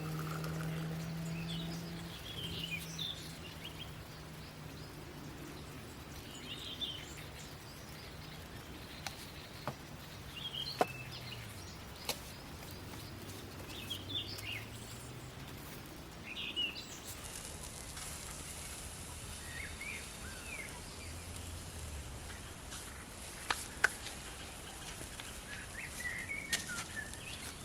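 Small birds chirping now and then against a quiet outdoor background. A low hum fades out over the first few seconds, a few sharp clicks sound, and a faint high hiss comes in about halfway through.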